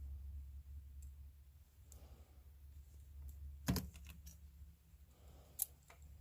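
Scattered light clicks and taps of small hard objects being handled, with one louder knock just past the middle and a sharp click near the end, over a steady low hum.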